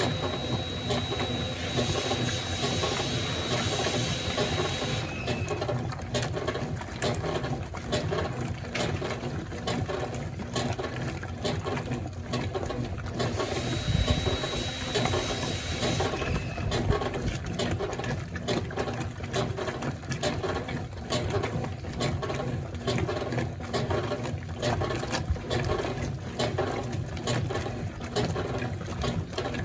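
Consul Facilite 11.5 kg top-loading washing machine running, a steady rhythmic mechanical churning with a brief hiss and faint high whine at about 13 to 16 seconds in.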